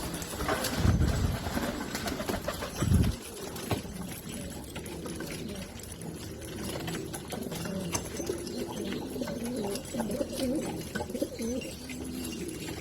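Domestic pigeons cooing repeatedly, several low wavering coos following one another. Two louder low thumps come about one second and three seconds in.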